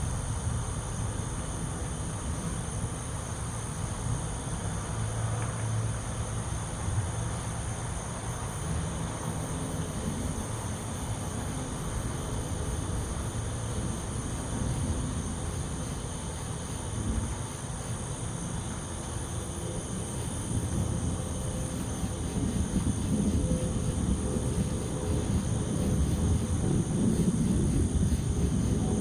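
Distant thunder rumbling low and continuously, growing louder in the last several seconds, over a steady high-pitched insect chorus.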